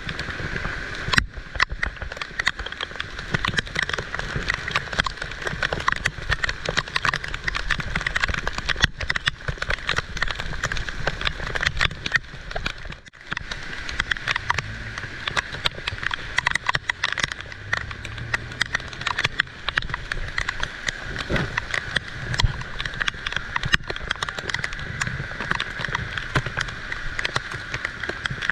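Heavy rain falling, a dense steady patter of drops striking nearby surfaces, with a low rumble underneath.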